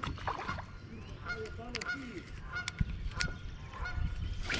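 Birds honking in a string of short repeated calls, with a few sharp clicks and low rumble from handling.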